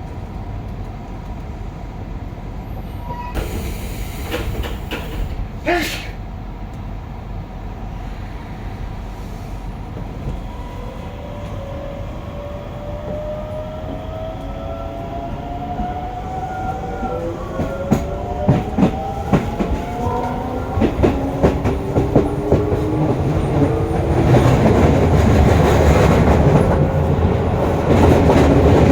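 Hokuso 7301's GTO-VVVF traction inverter whining in several rising, stepped tones as the train accelerates. Rail-joint clicks come faster and the running noise grows louder toward the end.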